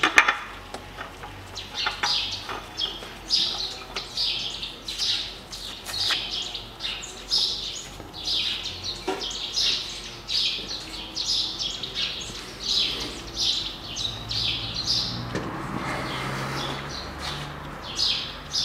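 Small birds chirping repeatedly, a few short chirps a second. There is a sharp click right at the start, and a low hum swells near the end.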